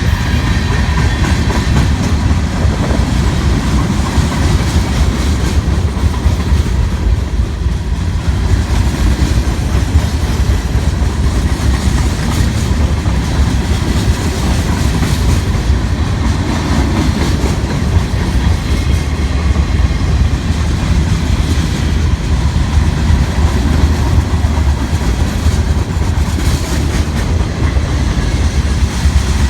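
Freight train rolling past, its cars' wheels clacking over the rail joints over a steady, loud rumble.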